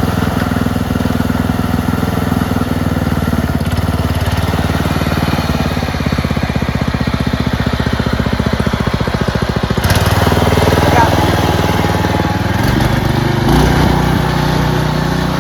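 Small lawn-tractor engine running steadily with an even, rapid firing beat; its sound changes about ten seconds in and shifts lower again near the end.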